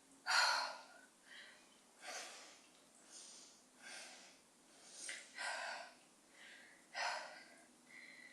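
A woman breathing hard during squat pulses: short, forceful breathy exhales, roughly one every second, some stronger than others.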